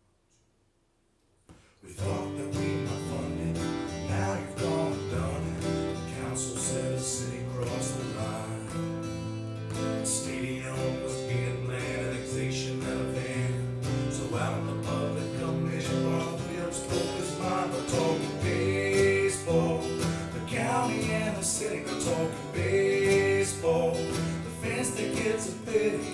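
Country-style song intro led by strummed acoustic guitar, starting about two seconds in after near silence.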